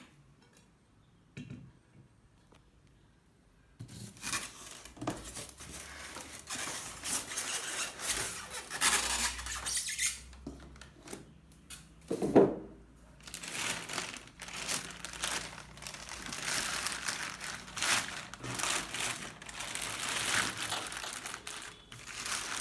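Packaging being handled as a microwave is unpacked from its box: plastic wrapping crinkling and tearing and foam squeaking, starting about four seconds in, with a heavier thump about twelve seconds in.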